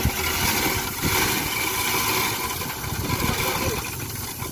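Diesel engine of a dump truck running steadily, with a broad hissing noise over the low rumble.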